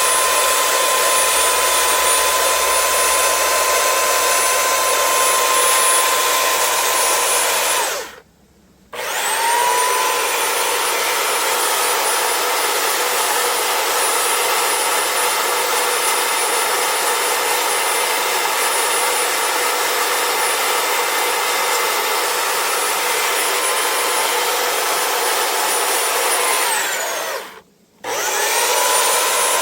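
An electric power tool working wood, its motor running with a steady whine. It is switched off about a third of the way in and spins straight back up within a second. Near the end it winds down, stops briefly and starts up again.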